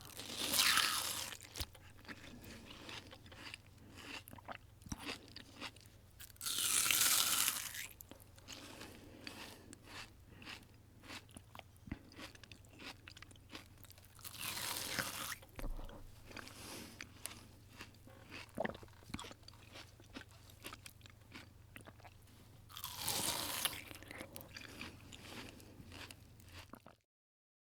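Bites into crunchy food, four loud crunches several seconds apart, each followed by chewing with small crackles.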